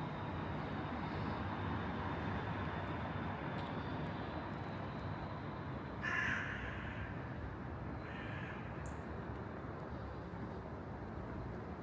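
A crow cawing twice, a loud call about six seconds in and a weaker one about two seconds later, over a steady low hum of city background noise.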